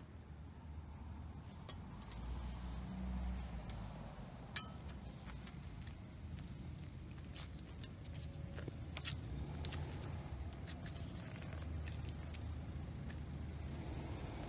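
Foil and wire cage being worked off the neck of a sparkling-wine bottle: scattered small clicks and crinkles, with one sharper click about four and a half seconds in, over a low rumble.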